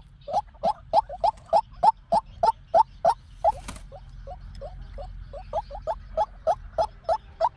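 White-breasted waterhen calling: a fast run of short, upward-slurred notes, about four a second, slackening briefly near the middle before running on.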